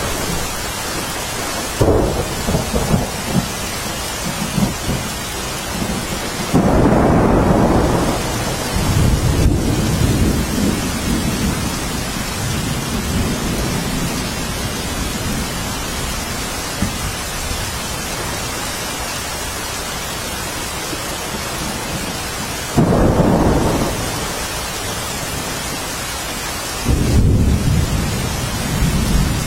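Steady rain hiss, with rolls of thunder rumbling in about four times, strongest a few seconds in and again near the end.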